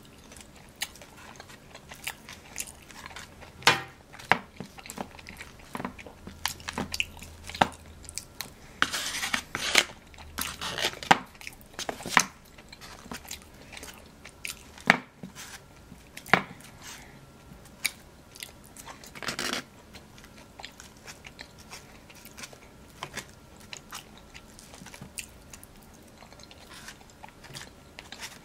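Close-up eating sounds of someone chewing poutine (fries with gravy and cheese curds): wet chewing and mouth clicks come irregularly, with louder bursts in the first two-thirds. Now and then there are light taps of a plastic fork in a foam takeout box.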